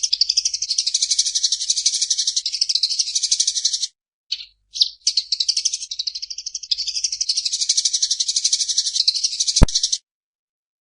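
Eurasian tree sparrow chattering in long, rapid trills of high notes, with a short break about four seconds in. A sharp click near the end is the loudest sound, and the song cuts off just after it.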